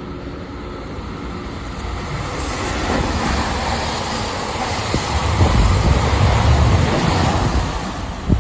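HOT7000-series diesel multiple unit passing through the station at speed as a limited express. The rumble builds and is loudest in the second half, with a sharp click near the end.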